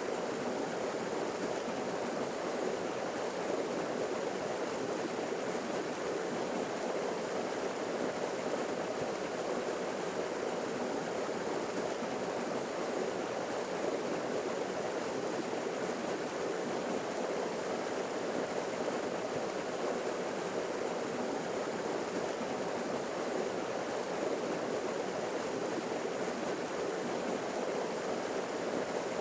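Forest waterfall: water falling and splashing in a steady, unbroken rush, fullest in the low middle with a softer hiss above.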